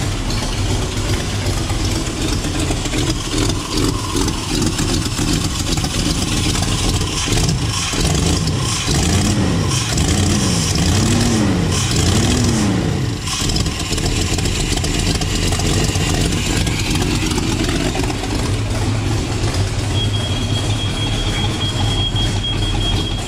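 El Camino engine on a newly fitted Holley EFI throttle body, running rough and rich: it is flooding while the EFI is still learning. About halfway through, the revs rise and fall four times in a row, about a second apart.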